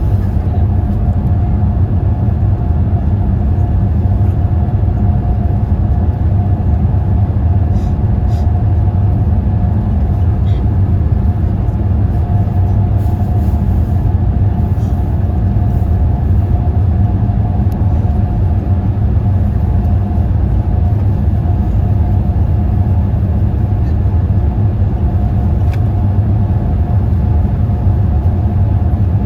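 Steady cabin noise inside a Boeing 787-8 airliner: a constant low drone of the engines and airflow with a faint steady hum above it, and a few small ticks.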